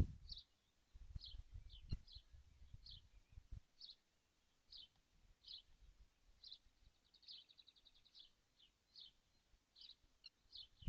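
Faint bird calls: short high chirps scattered throughout, with a quick trill of repeated notes about seven seconds in. Faint low thumps are heard during the first few seconds.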